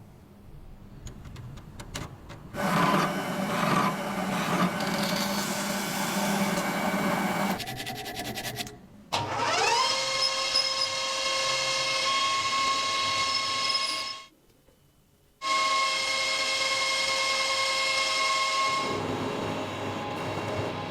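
Electric power tool at work: a stretch of rough working noise, then the motor spinning up to a steady whine, cutting off about five seconds later and starting again a second or so after.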